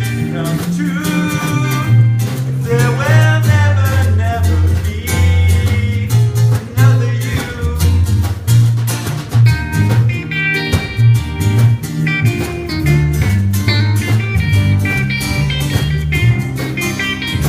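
Small jazz group playing an instrumental passage of a swing standard: a melodic solo line over moving bass notes and drums with cymbals.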